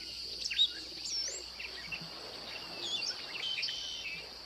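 Swamp wildlife ambience: a steady, high insect drone with many short bird chirps and whistles over it, some sliding in pitch.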